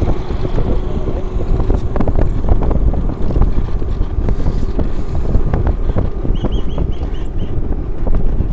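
Wind buffeting the microphone over the rumble of a moving vehicle, with frequent small knocks as it travels along a rough road. About six short, high chirps come in quick succession a little after six seconds in.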